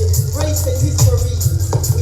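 Roots reggae vocal dubplate playing loud through a sound system: a heavy, deep bass line under a sung lead vocal, with steady hi-hat ticks.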